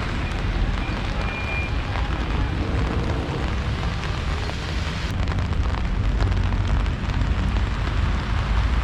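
Steady rain falling, heard as an even hiss with a strong low rumble underneath.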